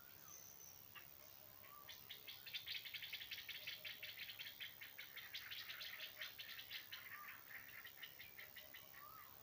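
An animal's rapid, rattling trill of about ten pulses a second, starting about two seconds in and fading out near the end, with a few short rising chirps from small birds.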